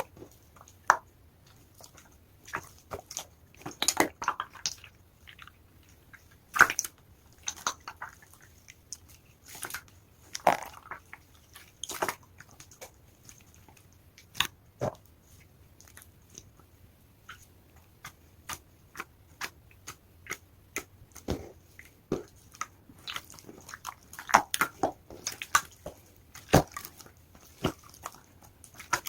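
Large pink clear slime being squeezed and stretched by hand, giving irregular wet clicks and pops, several clustered together at times.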